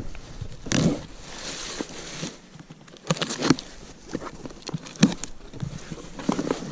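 Packing material rustling and crinkling, with light knocks and clicks as parts are lifted out of a shipping box.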